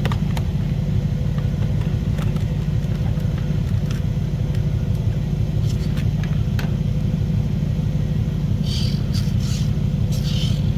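A steady low rumble with an even hum, overlaid by a few sharp light clicks and, near the end, some short hissy scrapes.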